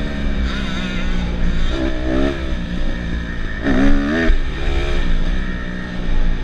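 Dirt bike engines running and revving, the pitch rising and falling in quick swings, strongest about two and four seconds in.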